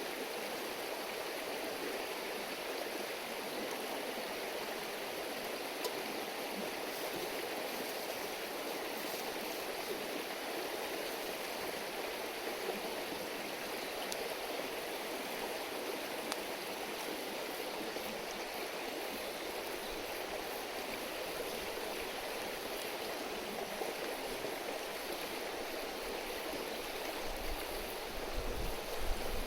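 River water running over a shallow bed: a steady rushing murmur, with a few faint ticks and a brief low rumble near the end.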